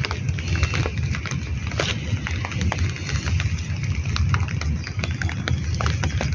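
Steady monsoon rain, with many scattered sharp ticks of drops striking nearby surfaces over a heavy low rumble.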